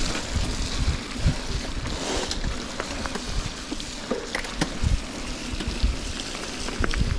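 Wind buffeting the microphone while riding a Specialized Levo electric mountain bike along a forest trail, over a steady rumble of tyres on the ground and scattered short knocks and rattles from the bike.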